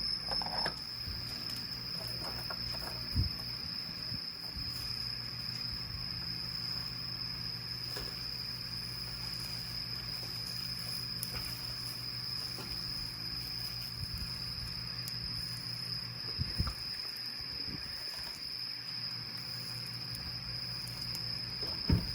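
Insects chirring outdoors in one continuous high-pitched tone, with a low steady hum underneath and a few soft bumps.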